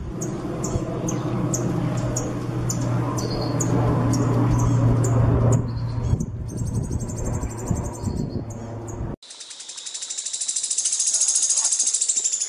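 Recorded songbird calls: high chirps repeat over a noisy background, then after a sudden cut about nine seconds in comes a fast, high, buzzing trill.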